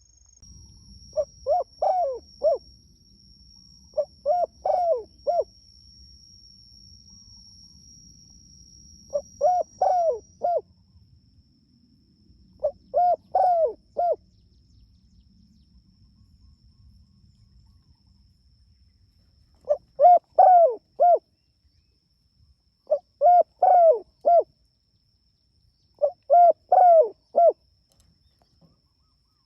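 Spotted dove cooing: a phrase of three or four quick coos, repeated seven times at intervals of a few seconds, with a longer pause in the middle.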